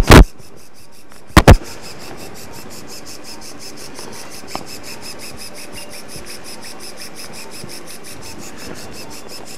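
Arthroscopic shaver running in the knee joint, a steady rapid pulsing of about six pulses a second, as it trims the torn meniscus. Two pairs of loud, sharp bursts come at the start and about a second and a half in.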